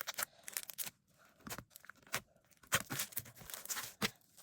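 Slime being squished and stretched in the hands, giving irregular sticky crackles and pops.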